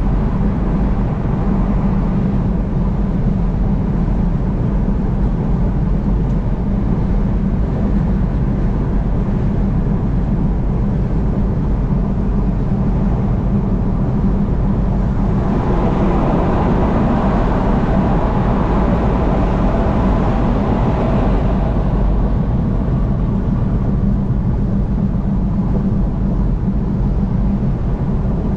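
Steady road noise of a car driving at highway speed: tyre and engine drone, with a louder stretch of rushing noise about halfway through that fades again after several seconds.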